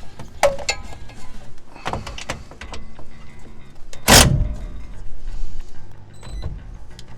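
Scattered clicks and knocks of hand tools on metal as a fuel tank is worked loose from under a truck, with one louder clatter about four seconds in, over background music.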